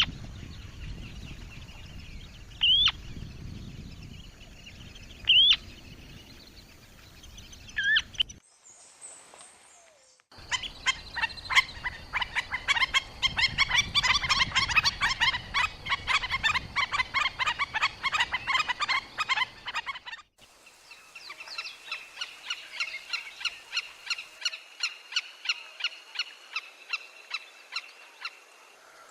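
Wild birds calling in three separate recordings: first short single rising call notes about every two and a half seconds, then a dense fast chattering series lasting about ten seconds, then a quick run of repeated notes, about two a second.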